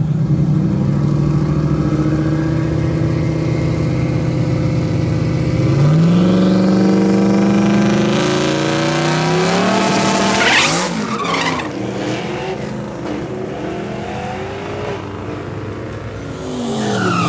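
A drag-racing car's engine running at high revs, its pitch stepping up about six seconds in. About ten seconds in it sweeps past loudly and the pitch falls away. Another car sweeps past with a falling pitch near the end.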